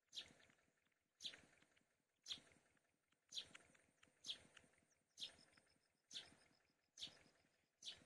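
Faint bird call repeated evenly about once a second, each call short and sharp and falling in pitch.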